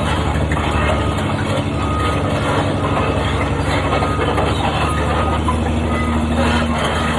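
A heavy construction machine's engine running steadily at a low, even pitch.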